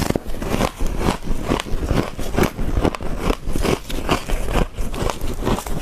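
Freezer frost being bitten and chewed, a rapid run of irregular crisp crunches, several a second.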